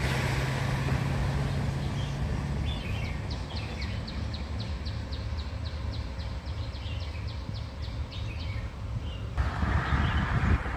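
Outdoor ambience: a steady low rumble under a bird repeating a short high note about four times a second for several seconds. Near the end the background turns hissier, with a stronger low rumble.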